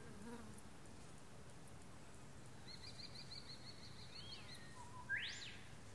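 Wild birds calling over a faint steady hiss: a quick run of about ten high, short notes, then a brief rising-and-falling whistle, and near the end one loud, sharp call that sweeps up and straight back down.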